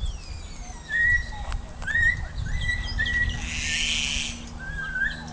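New Zealand kaka parrots calling: a string of clear whistled notes that slide up or down in pitch, with a harsh screech a little past halfway. A low rumble runs underneath.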